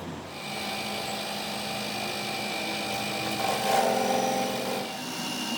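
A power tool running steadily on metal, with a rasping tone that grows louder for about a second past the middle.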